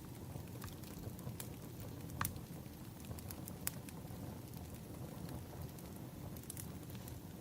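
Firewood burning: a steady low rumble with irregular sharp crackles and pops, the loudest a little over two seconds in.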